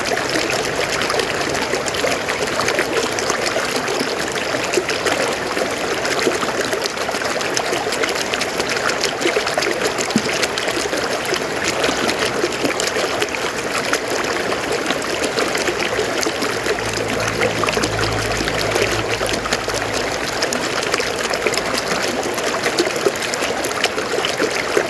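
River water flowing over forest rocks: a steady rush with many small splashes.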